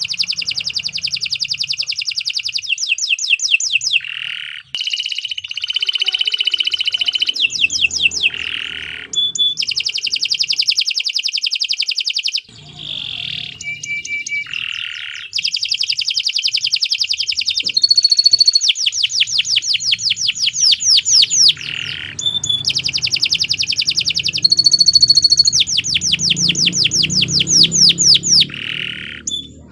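Domestic canary singing a long, continuous song of rapid trills and rolls. Each phrase lasts several seconds, with only brief breaks between them.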